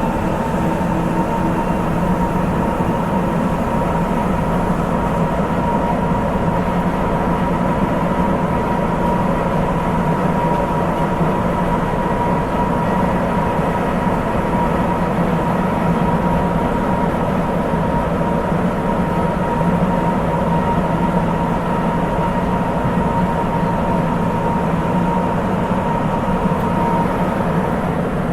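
Running noise inside a Sapporo Municipal Subway 8000 series car with a Hitachi IGBT inverter, cruising on rubber tyres in the tunnel. A steady low rumble carries a high whine held on one pitch, which fades out near the end.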